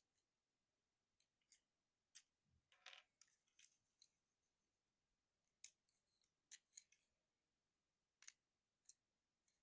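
Faint, irregular clicks and snaps of a Transformers Deluxe Class Swerve figure's plastic parts and joints being folded and pushed into place by hand during its transformation, with a brief scrape about three seconds in.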